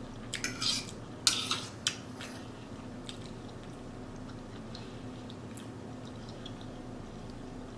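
Cutlery clinking and scraping against a plate several times in the first two seconds, followed by faint chewing over a steady low hum.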